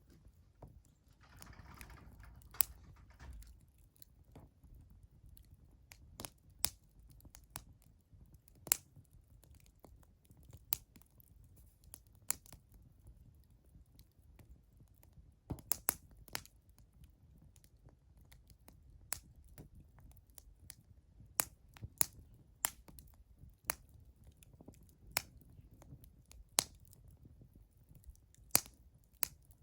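Wood fire crackling: sharp, irregular pops and snaps of burning firewood, a few seconds apart and sometimes in quick pairs, over a faint low rumble.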